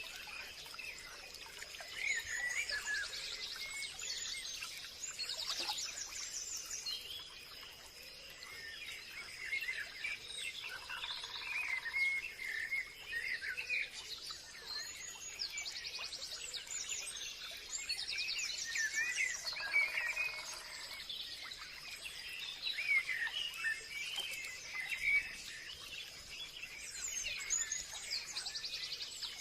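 Forest ambience: many birds chirping, trilling and calling over one another, over a steady high-pitched insect drone.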